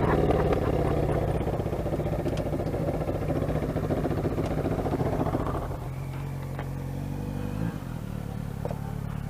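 Motorcycle engine running at low speed, heard from inside the rider's helmet; the note drops lower and quieter about six seconds in, then cuts off suddenly at the end.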